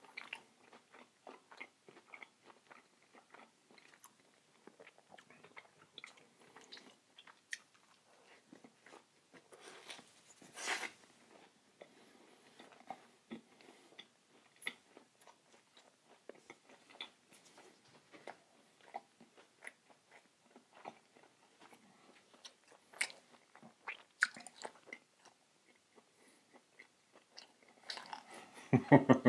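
A person eating close to the microphone: chewing and biting into a vegan sandwich-and-fries meal, many small scattered clicks of mouth and food. A louder bite or rustle comes about ten seconds in, and more activity near the end.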